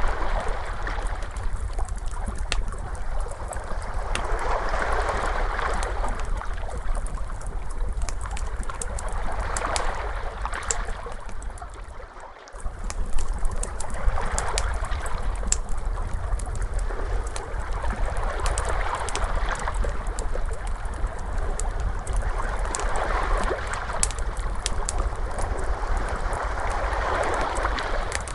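Ocean waves washing in and receding about every four to five seconds, mixed with the pops and crackles of a wood fire, over a steady low rumble. The sound dips briefly about twelve seconds in.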